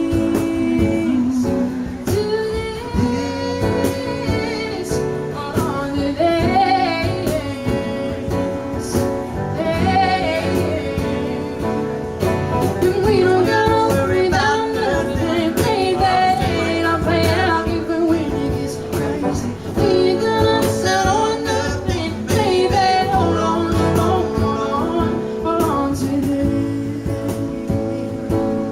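Live acoustic duo song: singing over strummed acoustic guitar, with a cajon keeping a steady beat.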